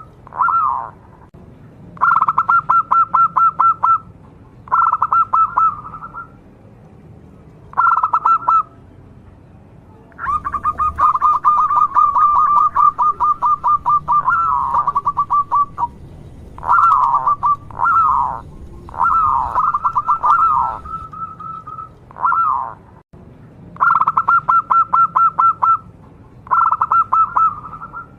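Zebra dove (perkutut) cooing: a dozen or so phrases of rapid staccato notes with short pauses between them, several ending in a falling note.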